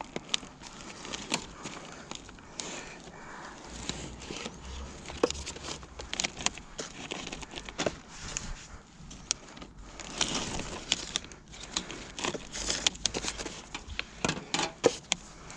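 Irregular clicks, snaps and plastic rustling as a discarded vacuum cleaner is pulled apart by hand and with wire cutters to salvage its cable and motor.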